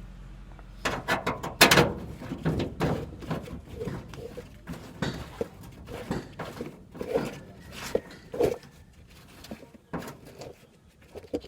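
Irregular knocks, thunks and clanks, several to a second, some with a short metallic ring.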